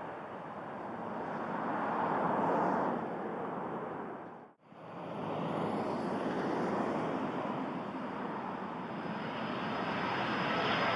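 Jet airliner engine roar from a departing Airbus A321neo that swells and then cuts off abruptly about four and a half seconds in. Right after, a Cessna CitationJet CJ2 business jet's turbofans run up for departure, with a thin high whine growing toward the end.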